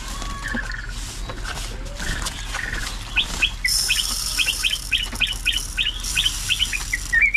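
A songbird calling: a few scattered chirps, then from about three seconds in a fast run of short, down-slurred notes, about four a second. A high hiss comes and goes twice behind the notes.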